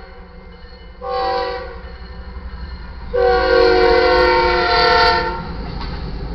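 Lead locomotive's multi-note air horn on BNSF 6430, a GE ES44AC, sounding a short blast about a second in and then a long blast of about two seconds, over the low rumble of the passing train. Short-then-long is the end of the standard grade-crossing horn signal.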